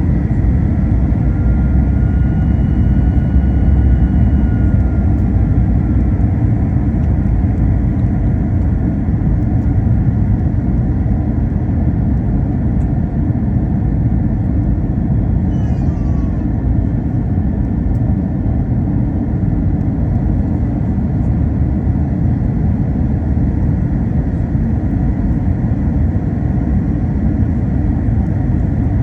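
Cabin noise inside an Airbus A321: a steady, loud low rumble from the engines and airflow, with a faint steady high whine above it.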